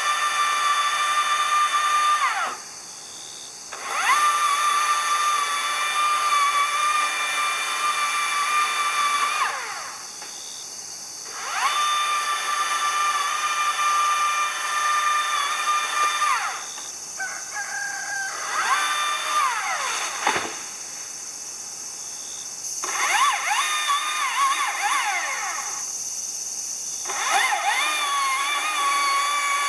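A power tool's motor spun up again and again, about six times. Each run starts with a rising whine, holds a steady high pitch for a few seconds, then winds down, with short pauses between runs.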